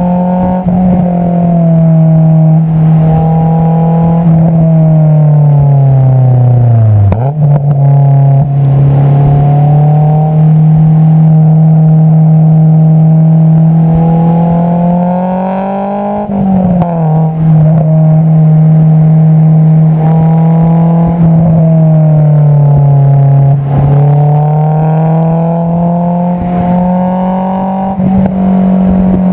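Honda S2000's 2.2-litre inline-four exhaust through an Invidia Q300 muffler, recorded right at the tailpipe while driving. The note climbs and falls with the throttle, with sharp pitch changes at gear shifts about a quarter of the way in and again just past the middle.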